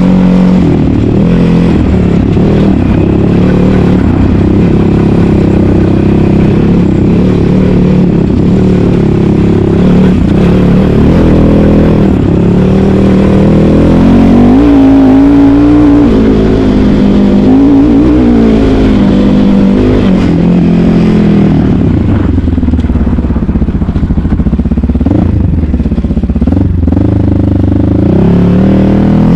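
Asix XT97 300cc enduro motorcycle engine running under load while ridden off-road, its pitch rising and falling with the throttle. It revs up hardest about halfway through, twice in quick succession.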